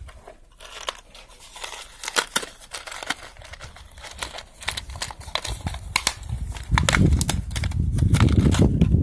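Small clicks and crinkling of a wire and crimp terminals being handled. About two-thirds of the way in, a much louder low rumble starts and carries on.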